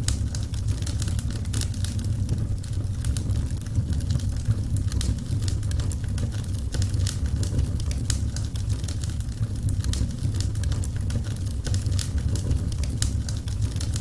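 Wood fire crackling: frequent, irregular sharp pops and snaps over a steady low rumble from the burning logs.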